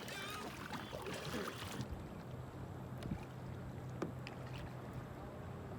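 Small boat out on open water: a steady low hum under light water noise, with a few sharp knocks about three and four seconds in.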